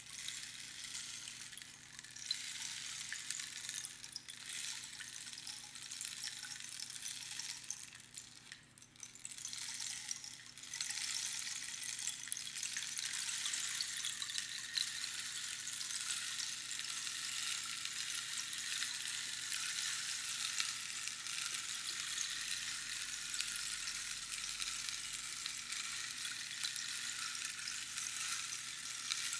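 Rainstick: small pebbles trickling down past the pins inside the hollow tube, a dense rain-like patter. It thins and nearly dies away about eight or nine seconds in, then starts again louder about ten seconds in and runs on steadily.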